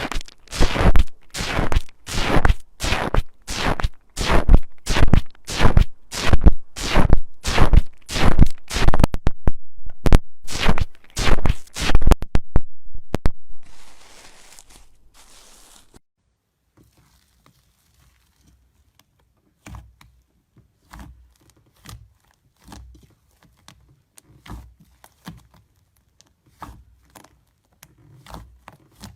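Slime being squeezed and pressed by hand, giving loud sharp pops and crackles about twice a second for the first half, then only faint scattered taps and squishes.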